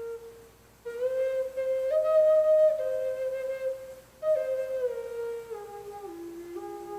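Native American flute playing a slow melody in held, stepped notes, broken by two short pauses, about a second in and about four seconds in. After the second pause the phrase steps down to lower notes.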